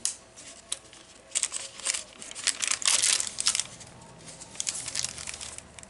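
Paper rustling and crinkling in short spells, with a few light clicks, as journal pages, tags and flaps are handled and turned.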